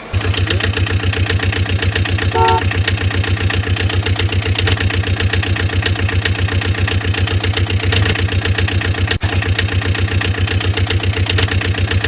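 Diesel engine sound running steadily with an even, rapid knock. A short pitched tone sounds briefly about two and a half seconds in, and there is a momentary dropout a little past nine seconds.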